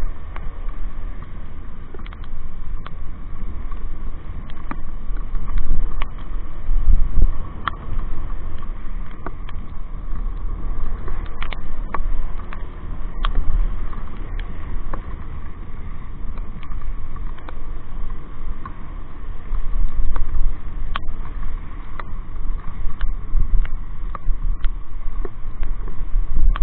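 Wind buffeting the microphone of a moving motorcycle: a heavy low rumble that swells and dips, with scattered sharp ticks.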